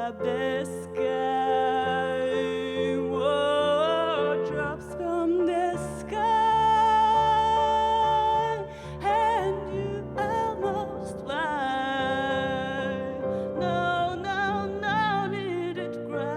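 A song performed live: a voice singing long, wavering held notes over sustained keyboard chords.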